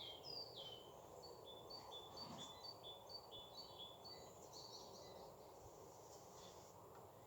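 Faint songbird singing over quiet outdoor background noise: a few short falling notes, then a quick run of repeated two-note phrases, high then slightly lower, for about three seconds.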